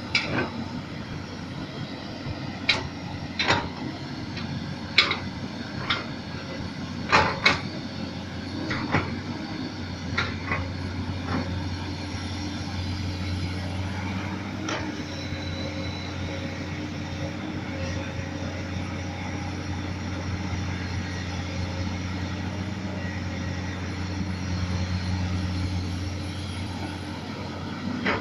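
Komatsu PC200 hydraulic excavator's diesel engine running steadily, with a series of sharp metallic knocks through the first dozen seconds. Then the engine runs on alone, its note swelling briefly near the end.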